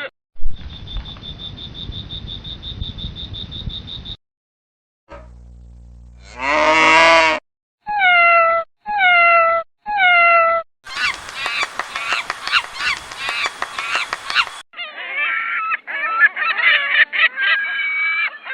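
A run of separate animal-call clips: after a noisy opening with a steady high tone, a rising call, then three honking waterfowl calls about a second apart, each dropping in pitch at its end, and then a flock of birds calling all at once.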